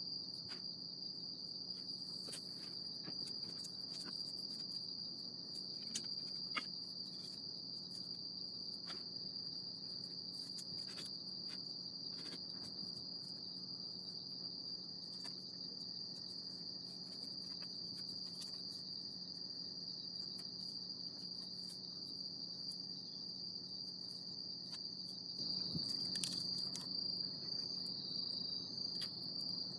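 Insects trilling steadily on one high pitch, growing louder and less even near the end, with scattered faint clicks and a low steady hum beneath.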